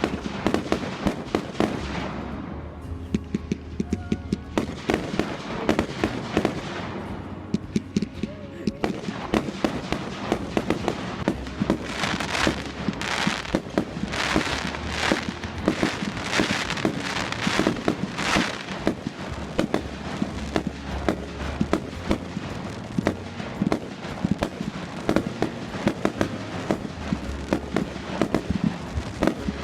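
Fireworks display: a rapid, continuous run of bangs and crackles, thickening into a dense run of loud bursts in the middle.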